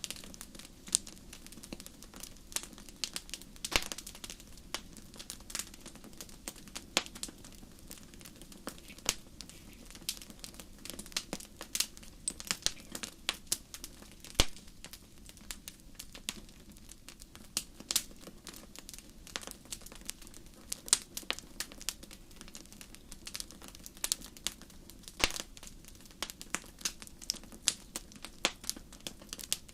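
Campfire crackling: wood burning with irregular sharp snaps and pops, a few of them loud, over a low steady rush of the flames.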